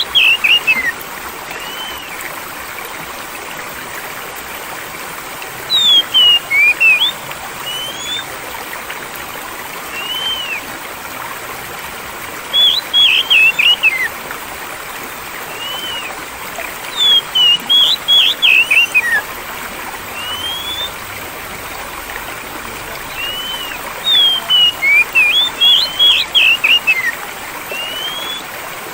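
A songbird repeating short bursts of rapid chirping notes, five times, with single slurred whistles between, over a steady bed of flowing, trickling water.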